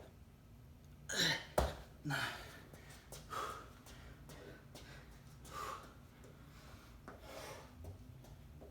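A person breathing hard from exertion, with short, forceful breaths coming irregularly every second or two. There is one sharp click or knock about a second and a half in.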